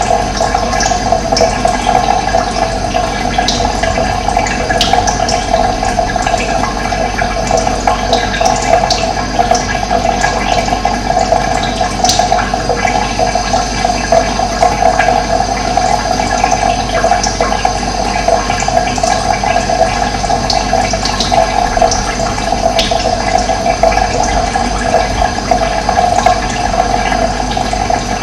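Running water, a steady rushing flow, with a few brief high chirps from birds scattered over it.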